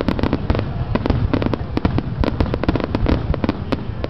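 Fireworks going off in rapid, irregular succession, many sharp bangs and crackles a second over a continuous low rumble.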